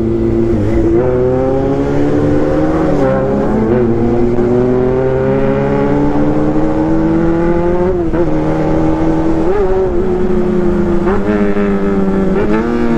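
Honda CB400 Super Four's 400 cc inline-four engine running loud, its pitch climbing slowly for several seconds, then dipping and rising again a few times in the last seconds.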